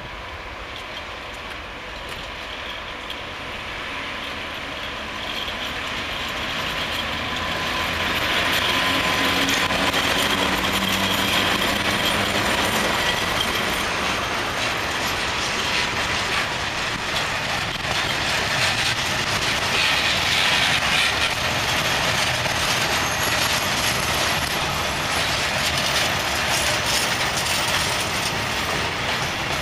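Freight train hauled by a PKP ET22 electric locomotive passing close by: the steady rolling noise of the stake flat wagons' wheels on the track, growing louder over the first eight seconds or so and then holding steady.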